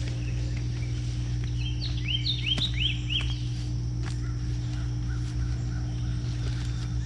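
A songbird singing a quick run of chirps about two to three seconds in, followed by fainter chirps, over a steady low hum with a few faint clicks.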